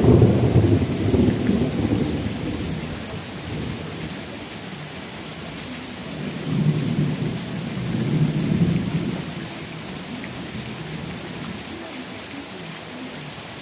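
Steady rain with rolling thunder: a low rumble fading away over the first few seconds, and another rumble swelling and dying away about six to nine seconds in.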